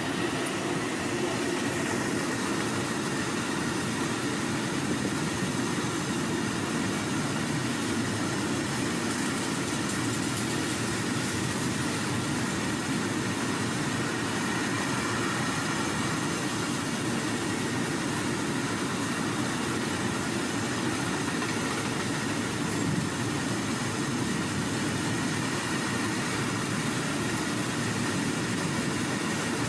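A 2.8 km-long freight train of open goods wagons running past at speed: a steady, unbroken noise of steel wheels on rail that holds the same level throughout.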